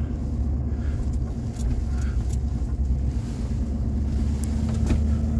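A vehicle driving slowly, its engine and tyres making a steady low rumble heard from inside the cab.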